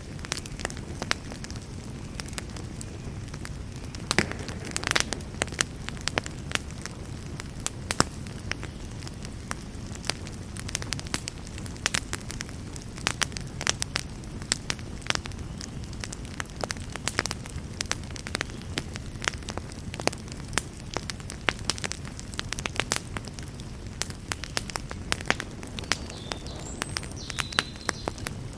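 Campfire burning: a steady low rumble of flames under frequent, irregular sharp crackles and pops.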